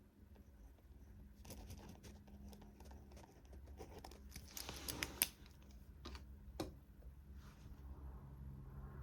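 Quiet study-desk handling sounds: scattered soft clicks and paper rustling, with a louder rustle near the middle and a sharp click shortly after.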